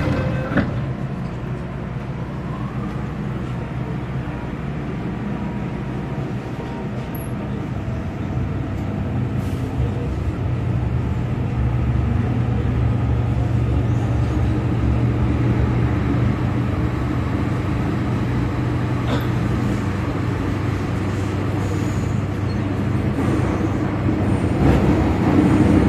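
MTR Kwun Tong Line M-Train running: a steady rumble with a low hum that grows stronger about ten seconds in.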